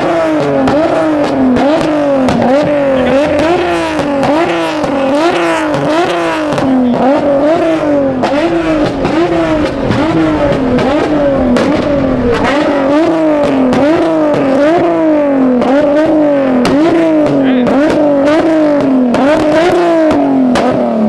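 Car engine held at high revs, its pitch climbing and dropping back about once a second in a steady rhythm.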